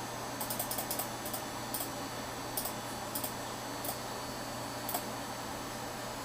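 Computer keyboard typing: a quick run of keystrokes about half a second in, then single key presses spaced out over the next few seconds, over a steady low hum.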